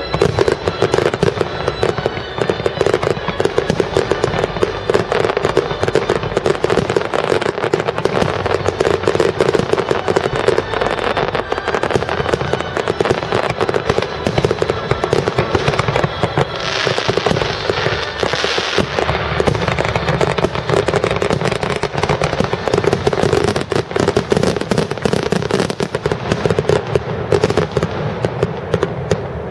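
Aerial fireworks going off in a dense, continuous barrage: rapid overlapping bangs and crackle with no let-up.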